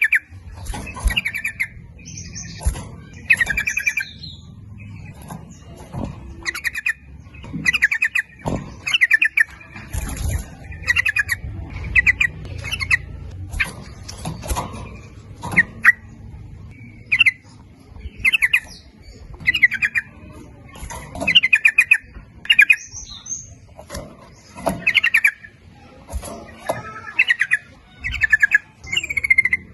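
Yellow-vented bulbul song: short, bubbly, chattering phrases repeated about once a second, with thin high chittering between them.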